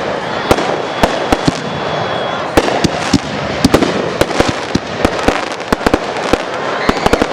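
Fireworks display going off: a dense run of irregular sharp cracks and bangs over a constant crackle. A thin high whistle is heard through the first two seconds or so.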